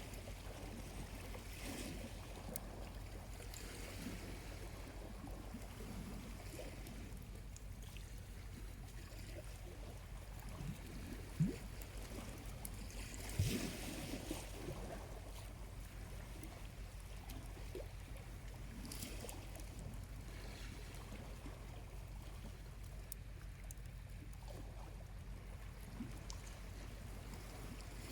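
Small waves washing gently onto a calm shore every few seconds over a steady low rumble, with a few faint crackles from a charcoal campfire and a couple of sharper pops near the middle.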